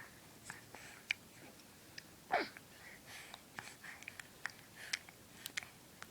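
Nacho chip being bitten and chewed: scattered short crunching clicks, with one short, louder squeaky breath or vocal sound a little over two seconds in.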